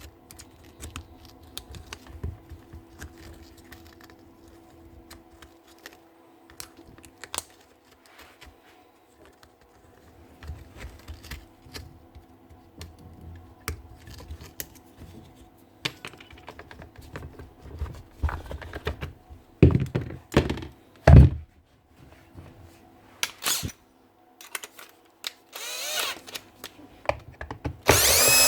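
Workbench clicks and knocks from tools and parts being handled, with two heavy thunks about twenty seconds in. Near the end, a power drill's motor runs briefly in short spurts.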